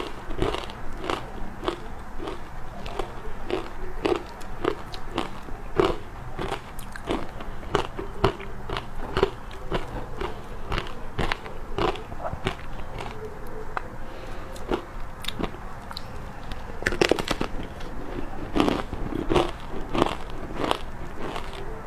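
Ice coated in matcha powder being bitten and chewed, one sharp crunch after another at roughly two a second, with a louder flurry of crunches about three-quarters of the way through.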